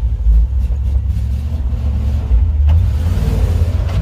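Chevrolet dump truck's engine and road noise heard from inside the cab while driving, heavily loaded with rock: a steady low rumble, with a brief click about two-thirds of the way through.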